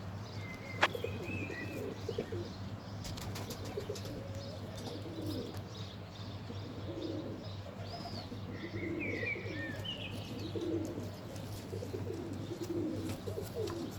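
'King of the Mountain' fancy pigeons cooing over and over, with a few higher small-bird chirps near the start and around the middle. A single sharp click about a second in is the loudest sound, over a steady low hum.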